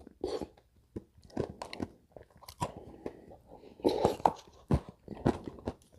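A person chewing a mouthful of Dairy Queen Blizzard ice cream close to the microphone, with irregular crunches and mouth clicks.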